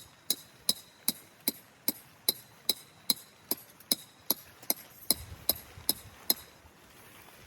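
A hammer striking a metal tent peg in quick, even blows, about two or three a second, each with a short metallic ring. The blows stop shortly before the end.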